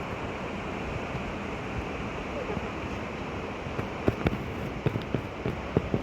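Steady rush of water, with a run of sharp clicks and knocks in the second half.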